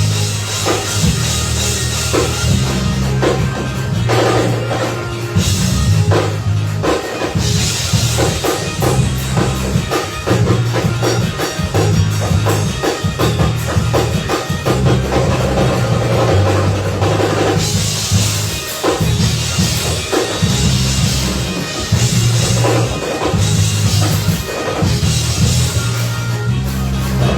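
A live gospel church band playing an up-tempo instrumental praise break: a busy, driving drum kit over a loud, moving bass line.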